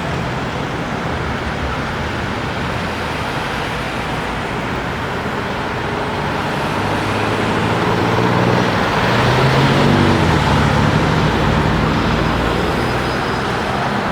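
City street traffic noise with a car engine running close by, growing louder to a peak about two-thirds of the way through, with its pitch bending as it passes, then easing.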